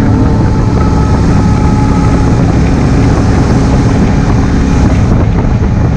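Honda Africa Twin CRF1000L's parallel-twin engine running steadily under way, with road and wind noise over it.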